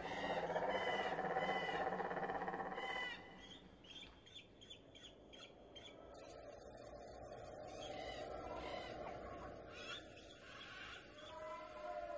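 Birds calling and chirping: a louder run of calls for the first three seconds, then fainter, short chirps.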